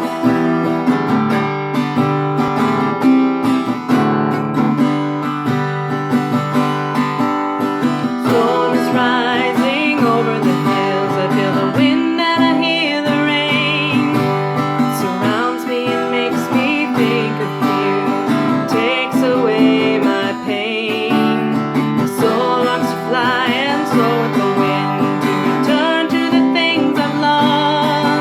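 Acoustic guitar playing a steady accompaniment, with a wavering sung melody coming in over it about eight seconds in.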